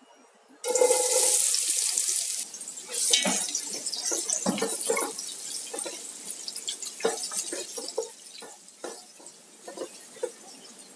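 Water pouring for about two seconds, starting suddenly, then scattered light knocks and splashes that die away.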